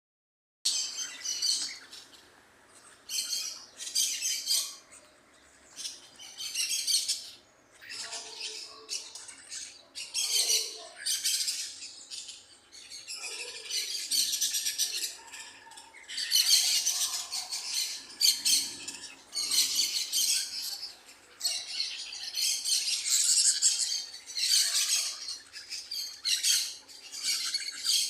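Parrot chirping and squawking in a long run of high, harsh bursts, each about a second long, with short pauses between them.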